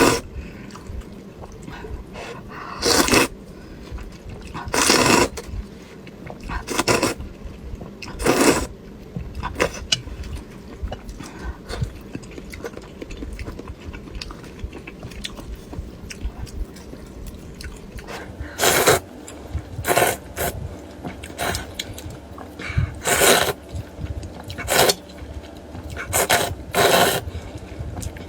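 Close-miked eating of duck blood vermicelli soup: about a dozen short, loud slurps of noodles and broth, with quieter chewing in between. The slurps bunch in the first few seconds and again in the last ten, with a longer stretch of soft chewing in the middle.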